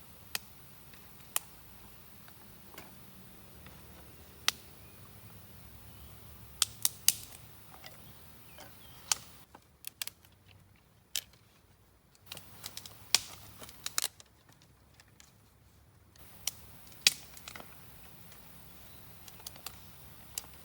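About fifteen sharp clicks and snaps at irregular intervals over a faint steady background.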